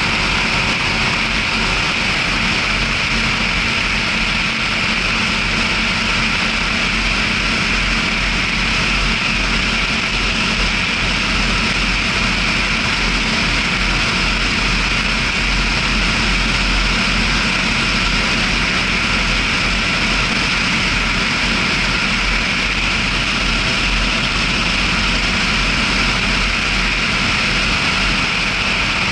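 John Deere 6620 tractor's six-cylinder diesel engine running steadily under load, pulling two loaded trailers on the road, with an even drone and hiss that holds throughout.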